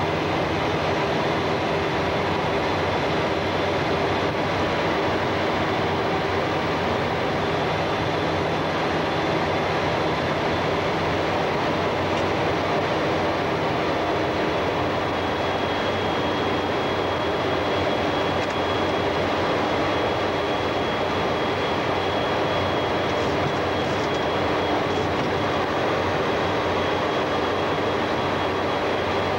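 Steady cabin noise of a Boeing E-3D Sentry in flight: a constant rush of engine and airflow noise with faint humming tones. A thin high whine joins about halfway through.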